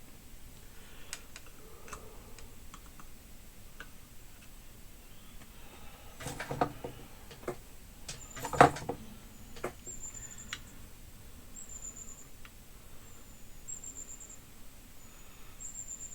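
Small tools at work on a circuit board during soldering: faint ticks and taps, with two louder knocks and clatters about six and a half and eight and a half seconds in. Faint short high chirps repeat about once a second through the second half.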